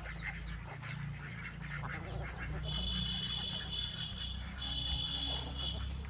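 Fowl such as ducks or geese calling repeatedly over a steady low rumble. Twice, a high steady tone is held for about a second.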